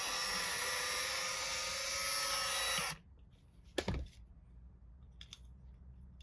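A small high-speed rotary power tool running steadily, then stopping abruptly about three seconds in. A single sharp click follows about a second later.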